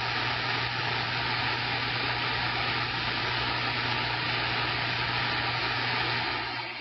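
CB radio receiver hissing loudly with static as the squelch opens on a weak incoming transmission, with a steady low hum under the hiss. It cuts in suddenly and dies away near the end.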